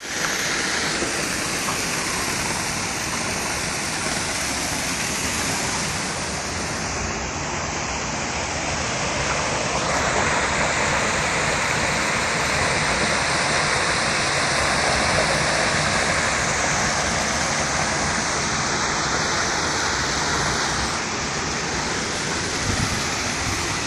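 Waterfall pouring into a pool: a steady rush of falling water, swelling slightly louder about halfway through.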